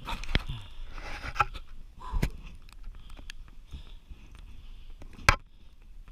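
Footsteps crunching through deep snow, with several sharp knocks and cracks. The loudest, a sharp crack about five seconds in, is a dead, freeze-dried branch snapping off as it is bumped.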